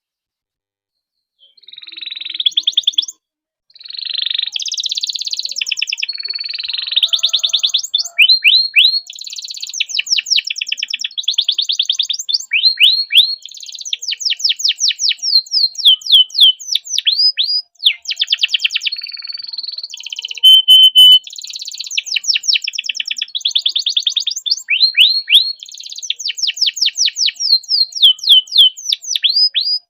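Domestic canary singing a long, unbroken song that starts about a second and a half in. Fast rolling trills alternate with runs of quick repeated down-slurred notes, with only brief breaks.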